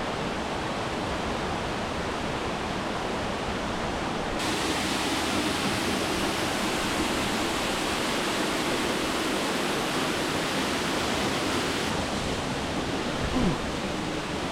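Waterfall pouring steadily, a constant rushing of water. It turns brighter and more hissing from about four seconds in until near the end, and there is a brief low thump just before the end.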